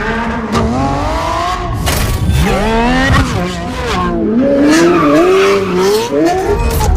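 Ferrari Amalfi's twin-turbo V8 revving, its pitch climbing and dropping again several times as the car accelerates and shifts.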